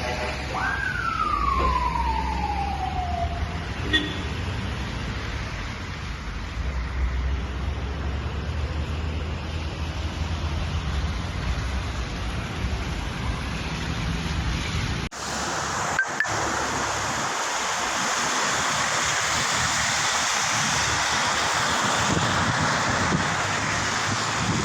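Road traffic with vehicle engines running; about a second in, a siren tone falls steadily in pitch over a couple of seconds. About fifteen seconds in the sound cuts to a steady rushing hiss, the sound of traffic moving through the standing floodwater at the junction.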